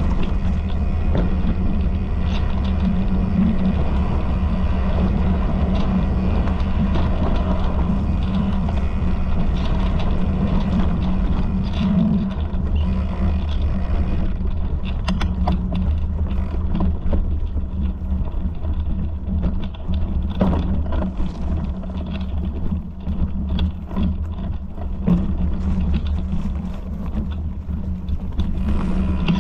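Steady low rumble of a ride along a trail, with rattles and knocks over bumps in the second half.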